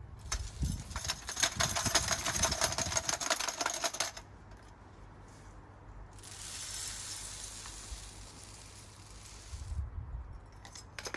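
Dry bird seed poured out with a dense rattle of small hard grains for about three seconds, then a softer, steadier hiss for about four seconds, with a few knocks near the end.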